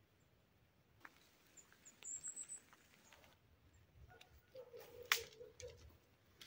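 A bird chirps a quick run of high notes about two seconds in. Later comes a faint low whine and one sharp click.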